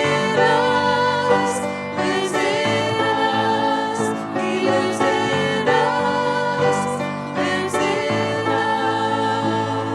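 Congregational hymn singing, voices holding sustained notes over a steady accompaniment.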